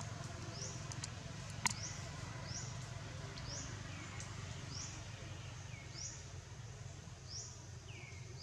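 A bird calling over and over, a short high chirp that falls in pitch, about once a second, over a steady low background hum. One sharp click about one and a half seconds in.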